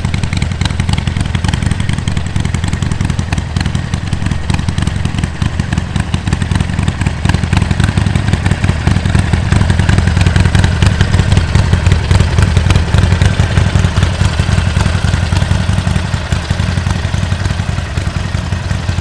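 Harley-Davidson Sportster Forty-Eight's air-cooled V-twin running through a J&H aftermarket exhaust, a steady fast pulsing exhaust note. It grows a little louder through the middle and eases back toward the end.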